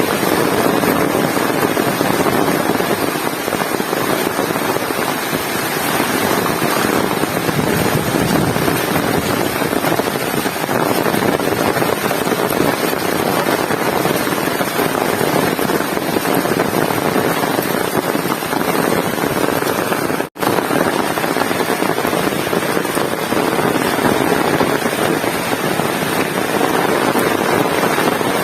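Heavy rain falling in a steady, dense hiss. It cuts out for an instant about two-thirds of the way through.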